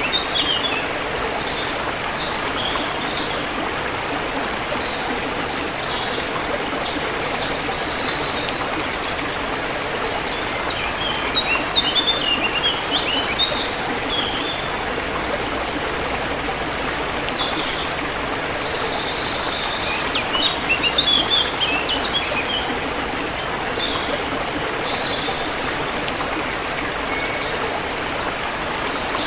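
A forest stream flowing steadily, with small birds chirping over it in scattered short calls, busiest in two spells around the middle and about two-thirds through.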